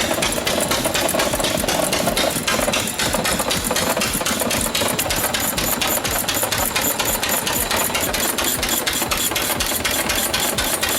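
Large vintage engine running at a steady speed, with a rapid, even beat of firing strokes.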